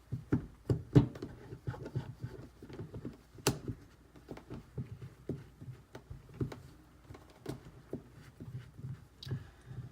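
Irregular light knocks and clicks of a knife and sharpening stones being handled on a bench, one or two a second. The loudest come about a second in and again about three and a half seconds in.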